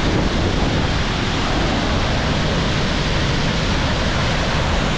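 Floodwater pouring through a dam's three open spillway gates and falling fast: a loud, steady rush of water.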